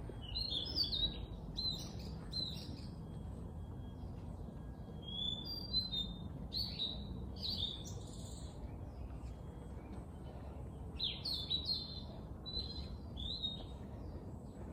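Songbirds chirping in three bouts of short, quick phrases, high-pitched, over a steady low background noise.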